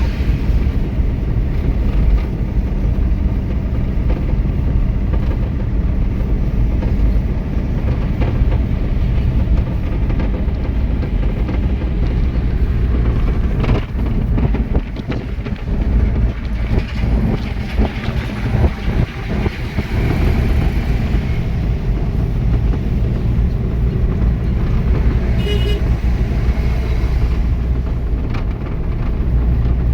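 Truck on the move: a steady engine and road rumble, rougher and more uneven for a few seconds midway, with a short horn toot about 25 seconds in.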